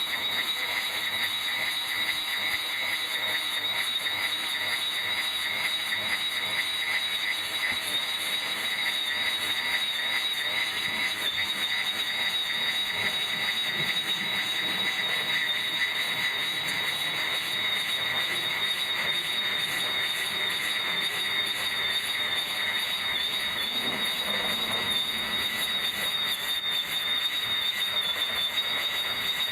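Electric grass trimmer running continuously with a steady high whine.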